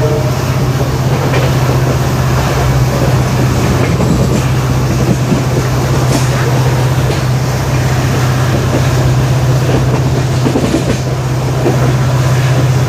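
EMD WDP4D diesel locomotive's two-stroke V16 engine giving a steady low hum, over the rumble and clatter of the train running on the rails.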